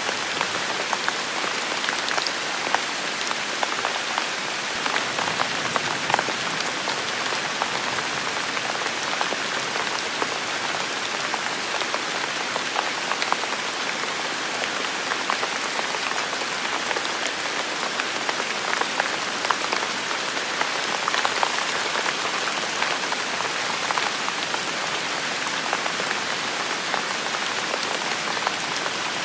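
Heavy rain falling steadily, an even hiss with many individual drops ticking through it.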